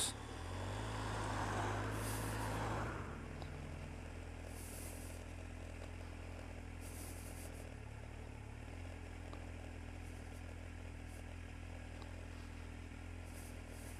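Kawasaki Z750's inline-four engine running steadily at low revs, a low hum, a little louder for the first three seconds or so before settling.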